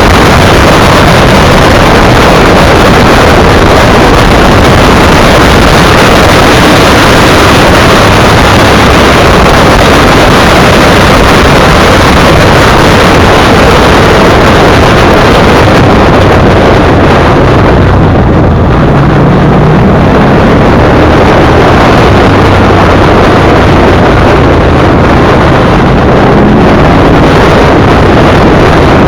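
Motorcycle ridden at speed, very loud: heavy wind noise on the microphone over the steady running of its V-twin engine, with the engine note rising a couple of times.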